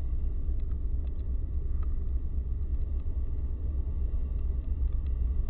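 Steady low rumble of an approaching Canadian Pacific freight train led by GE ES44AC diesel locomotives.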